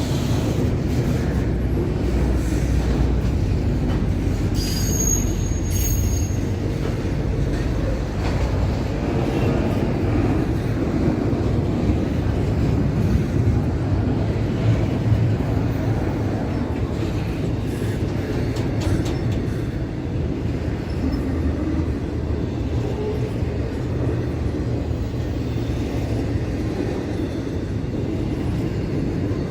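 Train rolling past, a steady rumble of wheels on rail, with a brief high wheel squeal about five seconds in.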